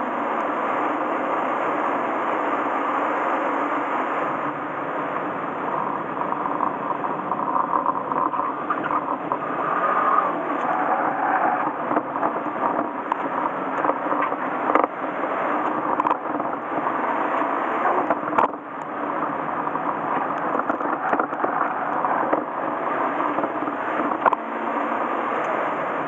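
Honda Fit RS (GK5) 1.5-litre four-cylinder engine with a stock exhaust, running hard on track, heard from inside the cabin mixed with road and tyre noise. There is a brief dip in loudness about eighteen seconds in.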